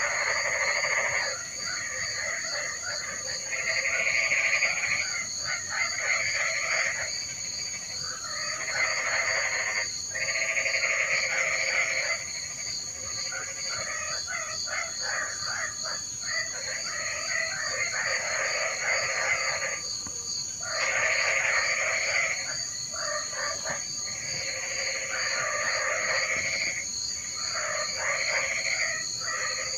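A chorus of frogs calling in repeated bouts of a second or two with short pauses between them, over a steady high-pitched insect trill.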